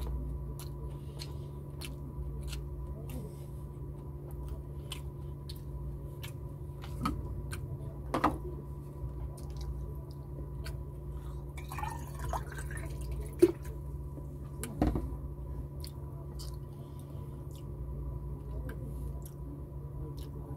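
Close-up eating sounds of a man chewing a mouthful of rice and fried tilapia: many scattered wet mouth clicks and lip smacks, with a few short louder mouth noises around the middle.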